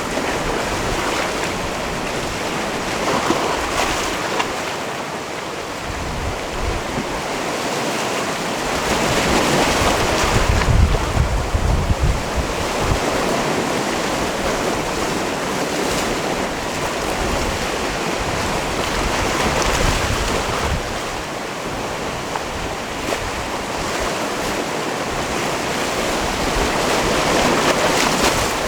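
Sea waves washing into a rocky cove, the surf swelling and easing every several seconds, with wind buffeting the microphone.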